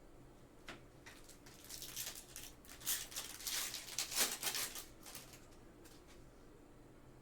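Trading cards and their foil pack being handled: crisp rustling and flicking, starting about a second in, busiest in the middle, and dying away by about six seconds.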